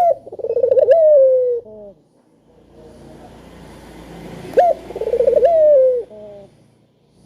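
Puter dove cooing twice: each call jumps up sharply, rolls into a wavering, falling coo, and ends with a short extra note.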